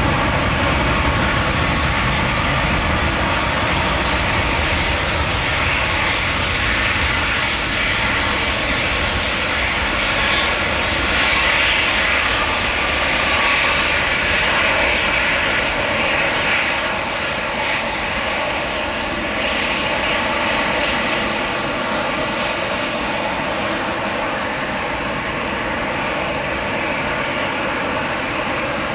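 Airbus A320-211's CFM56 turbofan jet engines running loud and steady: a broad jet rush with several steady whining tones. It is loudest about a third of the way through, then eases off slightly.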